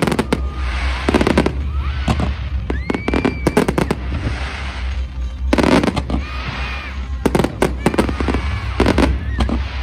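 A fireworks display: aerial shells going off in repeated volleys of sharp bangs and crackling, a volley every second or two, with hissing in between.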